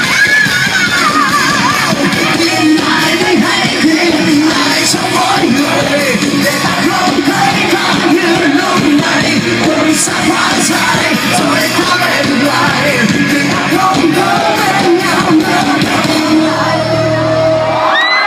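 Live rock band playing loud with electric guitars, a lead line bending high notes near the start, over crowd yells. The band holds a last note and stops just before the end, where the crowd starts cheering.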